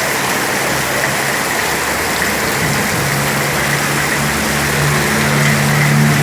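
Heavy rain pouring steadily, with a low engine hum that grows louder from about halfway through.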